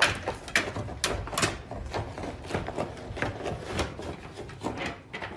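Irregular clatter of small knocks and clicks, several a second, as of objects being handled or bumped in a small room.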